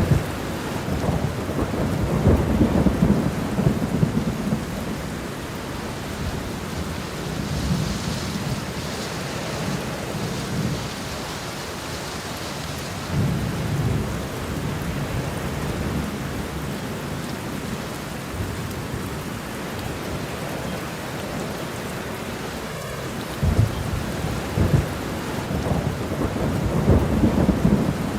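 Steady rain with thunder rolling several times: a long rumble in the first few seconds, a brief one about halfway, and another building near the end.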